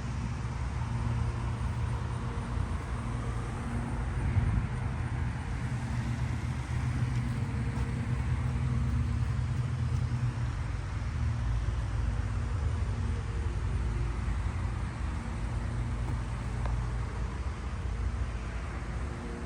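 1976 Ferrari 308 GTB's V8 engine running steadily, with a low, even drone.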